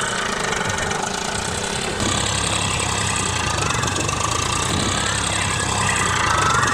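A motor running steadily with a continuous low hum, its sound changing about two seconds in.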